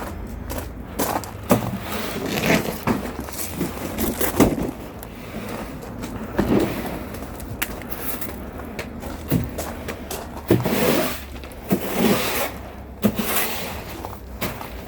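Irregular knocks, thuds and scrapes, as of things being handled and set down, over a steady low rumble.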